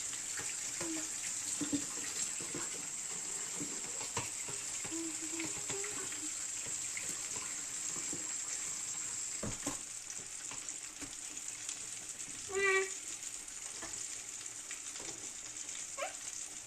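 Tap water running into a kitchen sink while dishes are washed, a steady hiss with scattered light clinks. About three quarters in, a brief high voice sound.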